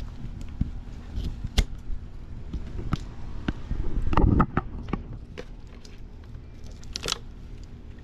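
Scattered clicks, knocks and rustling handling noise, with a louder rustling burst about four seconds in and another sharp rustle near the end.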